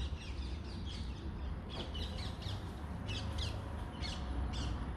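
Birds calling in quick clusters of short, high, downward-sliding notes: unhappy, complaining calls at a fox eating their food. A steady low rumble runs underneath.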